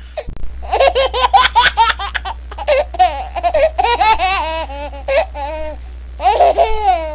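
Baby laughing: a long run of rapid, high-pitched giggles, then a short pause and another burst of laughter near the end.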